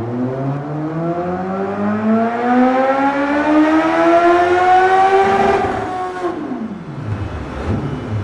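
Suzuki GSX-S1000's inline-four engine breathing through an aftermarket CS Racing exhaust, making a dyno pull: the revs climb steadily for about five and a half seconds, then the throttle shuts and the revs fall away quickly to a low rumble.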